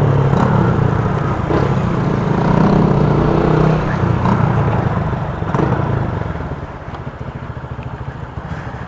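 Motorcycle engine running under throttle, loud for about six seconds, then easing off and quieter toward the end.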